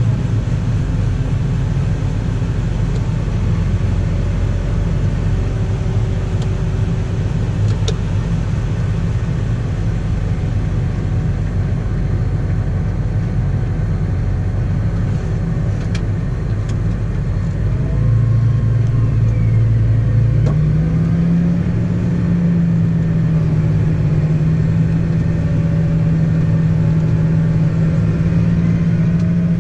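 Farm machine engine running steadily. Its pitch rises about two-thirds of the way through and then holds at the higher speed.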